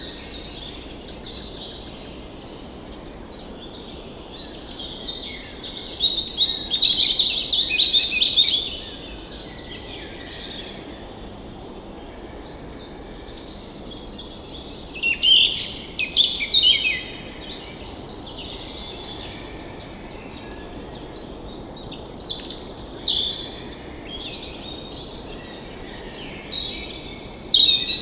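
Songbirds chirping and trilling in overlapping calls, coming in several louder bursts, over the steady rush of a forest stream.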